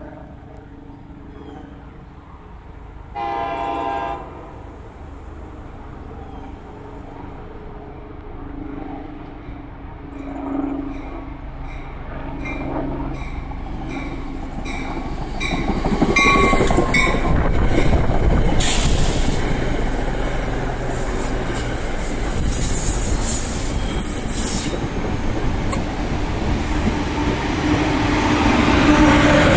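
NJ Transit commuter train giving one short horn blast, then approaching and passing: its wheels click steadily over the rail joints as it nears, and the train noise grows loud about halfway through as it goes by.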